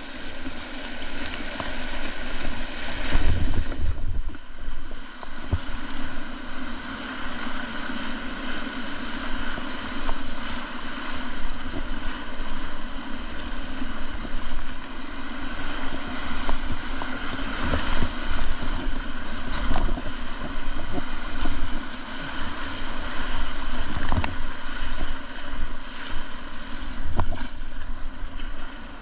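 River whitewater rushing and splashing around a kayak, a steady rush with occasional short sharp splashes, and wind buffeting the microphone, loudest about three seconds in.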